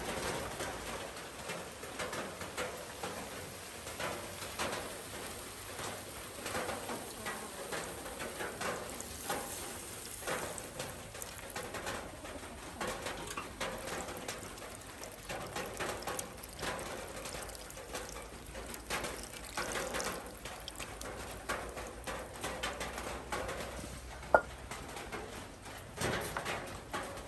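Steady rain pattering, with doves cooing in the background. There is one sharp tap near the end.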